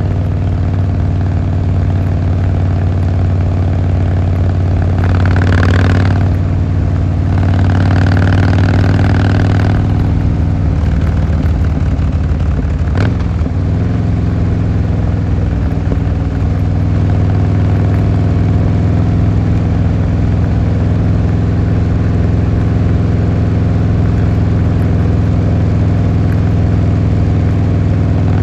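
Harley-Davidson Fat Boy Lo's V-twin engine running. It swells twice in the first ten seconds, shifts in note with a single click about thirteen seconds in, then settles into a steady low beat.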